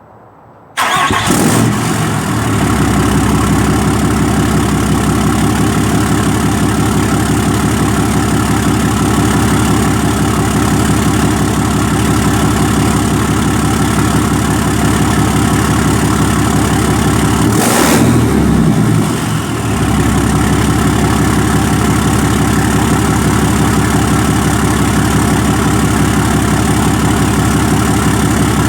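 Cummins diesel engine cold-starting about a second in after sitting a week, then idling steadily and loudly through a 4-inch exhaust tip. About two-thirds of the way through there is a short rev, and then it settles back to idle.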